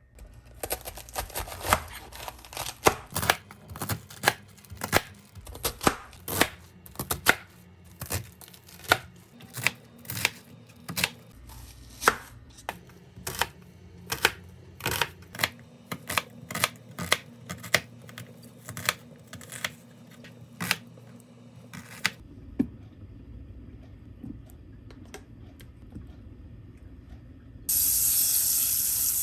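Kitchen knife chopping vegetables on a cutting board, steady strokes about two a second, stopping a little past twenty seconds in. Near the end a loud steady sizzle starts suddenly, food frying in a hot pan.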